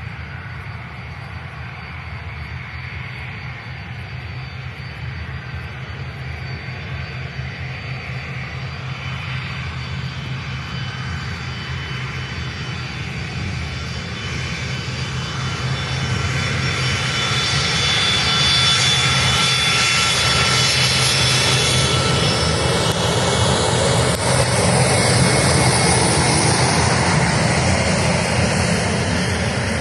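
Boeing 767-200 freighter's twin turbofan jet engines, a steady rumble with a high whine, growing louder as the airliner approaches. In the last several seconds the whine slides down in pitch as it passes.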